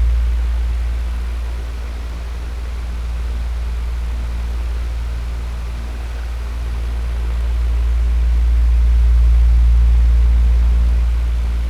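Electric fan running steadily: a strong low hum under an even hiss of moving air, its loudness slowly fading and swelling again, loudest near the end.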